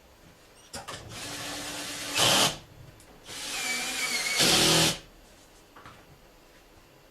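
Handheld power drill run in two bursts of about a second and a half each, each getting louder near its end.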